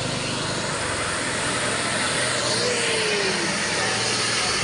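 Heavy truck running, a steady blend of engine and road noise, with a brief falling tone a little past the middle.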